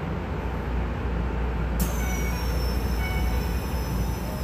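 Keisei 3000 series electric train running with a steady low rumble. About two seconds in, a high-pitched squeal sets in suddenly and slowly falls in pitch.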